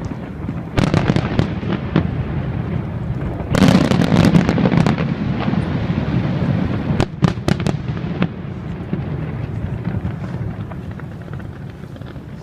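Fireworks display: shells bursting and crackling over a continuous rumble, with a dense volley of bursts about three and a half seconds in and several sharp separate bangs around seven seconds.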